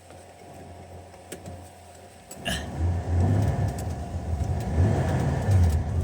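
A classic car's engine idling with a low hum. About two seconds in there is a sharp click, and the engine gets louder with an uneven low rumble as the car pulls away.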